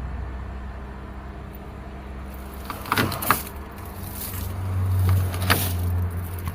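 A road vehicle running with a steady low drone. A couple of sharp knocks come about three seconds in, then the drone swells louder around five seconds in, with another knock.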